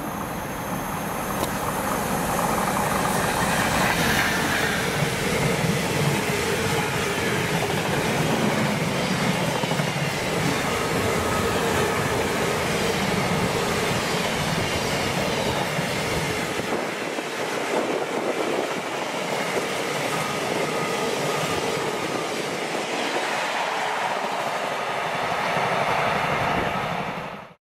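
Long container freight train running through at speed, its wagons rattling and wheels clattering over the rail joints. The sound builds over the first few seconds as the train arrives, then stays loud and steady as the wagons go by.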